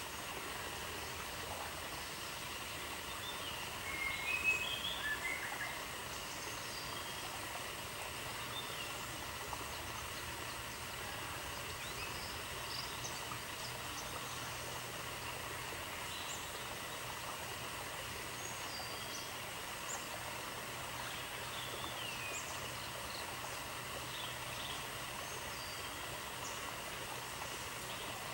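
Outdoor nature ambience: a steady hiss with scattered short bird chirps. A brief cluster of louder chirps comes about four seconds in.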